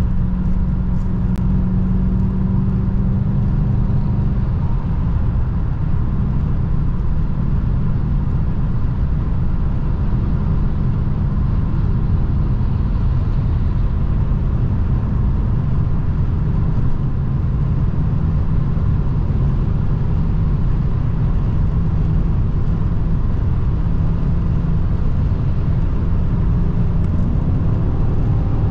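2003 Mercedes-Benz E500 4Matic's 5.0-litre V8 running steadily at high speed over a dense low rumble of road and wind noise, its note rising near the end.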